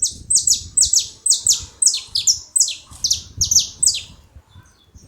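Saffron finch song: a rapid run of about fifteen loud, high notes, each sliding down in pitch, roughly four a second, stopping about four seconds in.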